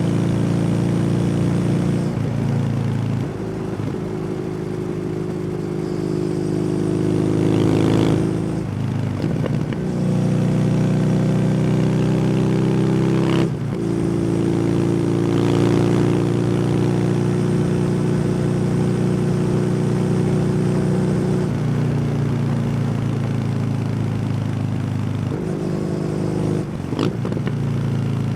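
Kawasaki W800's air-cooled parallel-twin engine running through an SC Project aftermarket exhaust while riding. The engine note steps up and down several times with brief breaks, about nine and thirteen seconds in, as the rider changes gear and rolls on and off the throttle.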